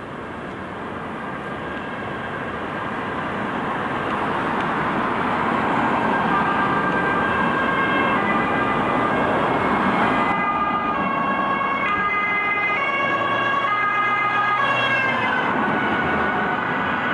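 Emergency-response vehicle approaching with its siren going over engine and tyre noise, getting louder over the first several seconds; the siren's pitch bends down about fifteen seconds in as it passes.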